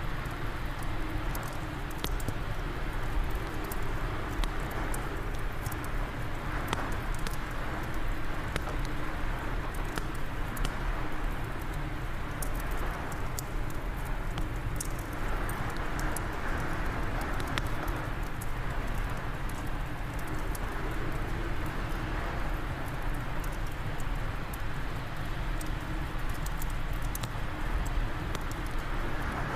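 Fireplace fire crackling, with scattered sharp pops and snaps, over a steady whoosh of wind that swells in gusts now and then.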